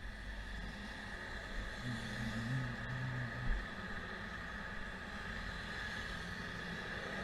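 Car driving: steady engine and road noise, with a brief low hum about two seconds in and a short knock about three and a half seconds in.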